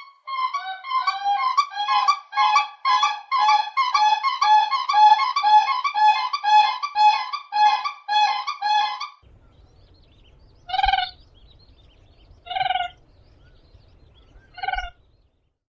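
Common cranes giving a rapid series of trumpeting calls on two alternating pitches, about two or three calls a second, for roughly nine seconds. Then three single calls about two seconds apart over a low rumble.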